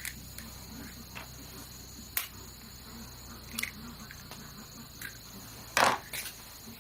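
Steady high-pitched insect drone, as from crickets, with a few scattered sharp clicks or snaps; the loudest is a short cluster of snaps near the end.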